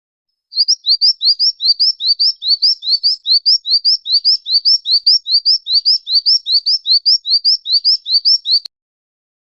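Black-winged flycatcher-shrike (jinjing batu) calling: a fast, even run of short, high, up-slurred notes, about four a second, lasting about eight seconds and then cut off abruptly.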